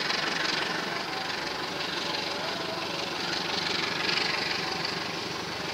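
Diesel locomotive's engine running as it hauls a passenger train past, a steady, even mix of engine noise and train noise.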